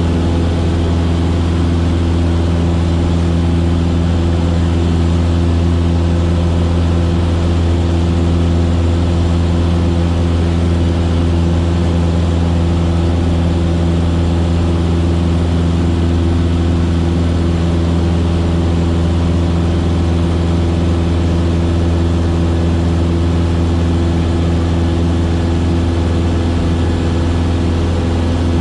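Cessna 152's four-cylinder Lycoming O-235 engine and propeller running at a steady, unchanging pitch in flight.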